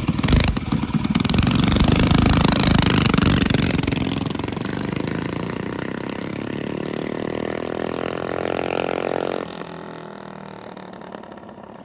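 Mini bike's small engine starting up loud, then climbing steadily in pitch as it accelerates for several seconds. About nine and a half seconds in it drops off suddenly, and a quieter engine sound carries on.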